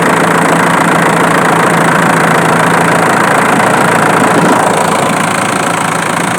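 Diesel engine running at a steady speed, heard close up. Its note shifts slightly and gets a little quieter about three seconds in.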